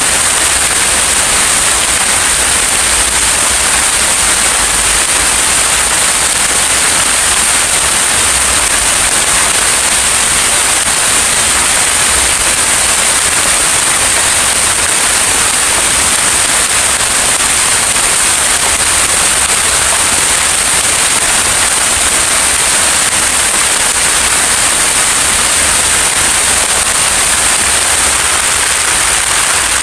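Heavy rain falling: a loud, unbroken hiss.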